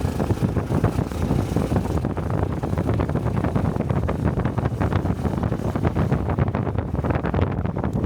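Honda Cub 125 cc single-cylinder motorcycle engine running under way, its exhaust pulsing steadily, with wind buffeting the helmet-mounted microphone.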